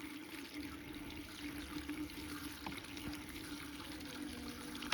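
Petrol trickling from a can through a cut-off plastic bottle used as a funnel into a Royal Enfield Bullet motorcycle's fuel tank. The pour is faint and steady.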